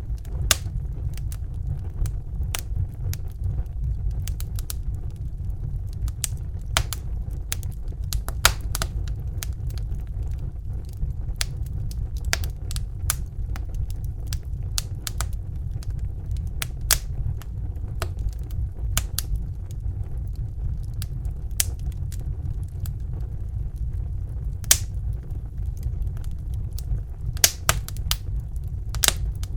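Crackling fire: irregular sharp pops and snaps over a steady low rumble, with a few louder pops.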